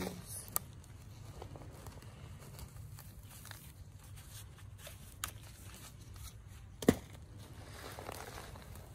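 Dry soil rustling and crumbling as hands dig through it to pull out sweet potatoes, with a few short sharp knocks, the loudest about seven seconds in.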